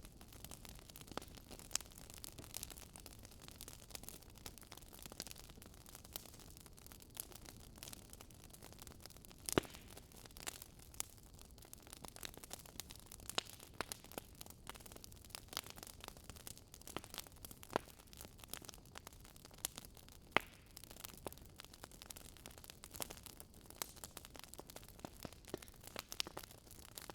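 Fireplace crackling: a soft steady hiss of burning wood with irregular sharp pops and snaps, a few louder ones.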